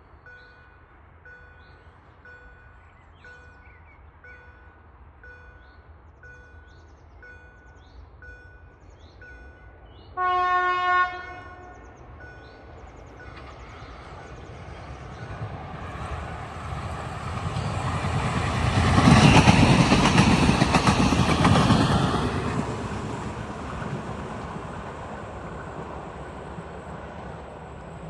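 Level crossing warning bell dinging about twice a second; about ten seconds in a train horn sounds for about a second, then a regional train approaches and passes, its rumble loudest around twenty seconds in and fading away.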